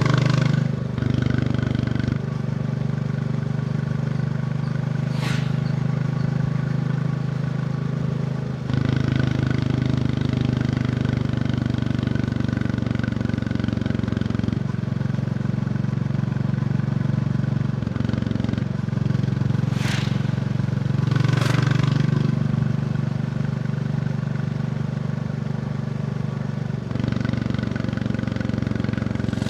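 Royal Enfield Bullet 350's single-cylinder engine running under way, its note changing in steps several times as the rider works throttle and gears. A few brief sharp clicks cut through it, about five seconds in and twice more around twenty seconds in.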